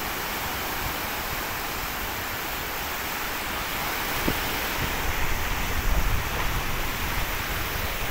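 Sea surf washing steadily, with a louder low rumble of breaking waves in the second half.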